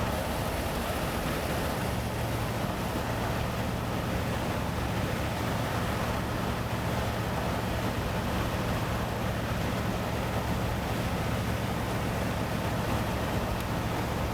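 Steady vehicle running noise, a constant low engine drone with an even rush of road or wind noise, unchanging throughout.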